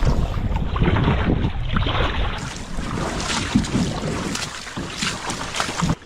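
Wind noise on the microphone over water sounds from a kayak being paddled, with irregular splashes from the paddle strokes.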